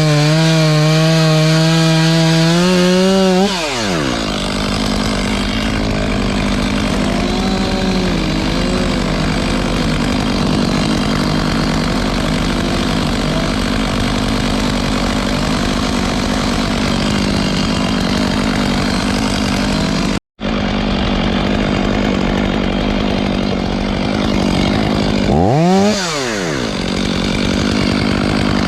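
Two-stroke chainsaw at full throttle, then biting into wood about three and a half seconds in, its engine note dropping and turning rougher under load as it cuts. The sound drops out for an instant about 20 seconds in, and the saw briefly revs up and falls back near the end.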